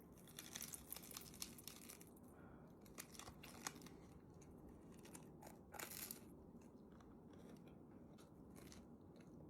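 Very quiet crinkling and crackling of a snack wrapper being handled, with scattered soft ticks and one brief louder rustle about six seconds in.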